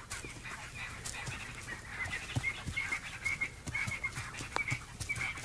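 A rapid series of short, high chirping animal calls, repeated many times over a faint background of clicks.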